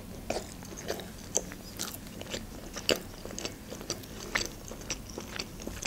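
Close-miked chewing of a juicy burger: irregular wet mouth clicks and smacks, several a second.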